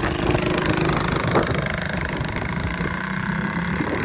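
Motorcycle engine idling steadily, its firing pulses running evenly.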